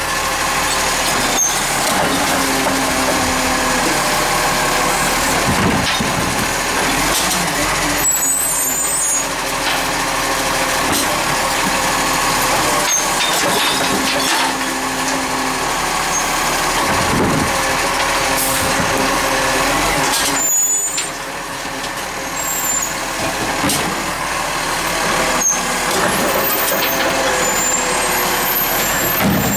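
Recycling garbage truck working: its engine runs continuously, the note rising and falling, with several sharp knocks.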